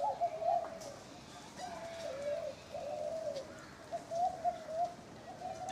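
Nicobar pigeon calling: a run of wavering coos in short phrases, with brief gaps between them.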